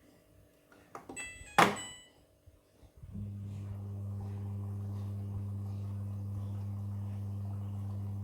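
Midea front-loading washing machine: a few clicks and a short high electronic beep as it is started, then about three seconds in a steady low electrical hum comes on as the machine begins its cycle, just before water starts filling.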